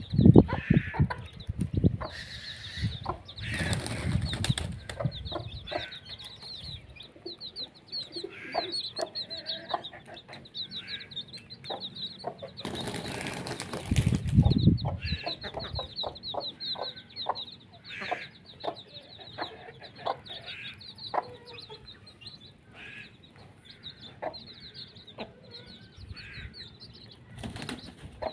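Birds chirping in quick, high-pitched runs throughout, with loud bursts of wing flapping a few seconds in, midway and near the end.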